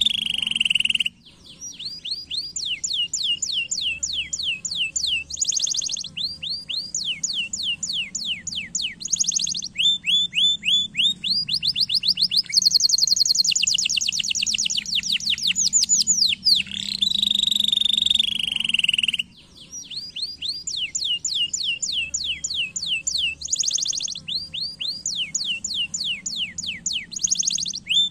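Domestic canary singing: fast trills of rapidly repeated, downward-sweeping whistled notes that change rate and pitch from phrase to phrase, with one long, very fast high trill near the middle. The song breaks off briefly about a second in and again near 19 s, then starts over the same way, as a looped recording does.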